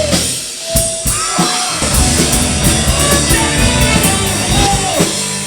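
Live rock band playing an instrumental passage with the drum kit prominent. The low end drops out briefly about half a second in, and the full band comes back about two seconds in.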